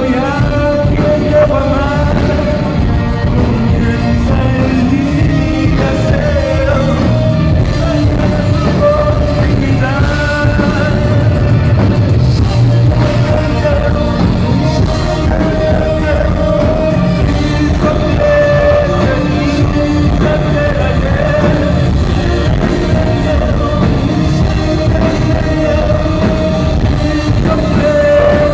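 Rock music played on a distorted electric guitar, with a held high note running through and bending lead lines above it.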